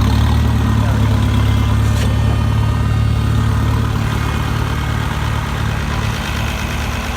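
Gasoline farm tractor engine running steadily at low speed, easing slightly quieter over the last couple of seconds.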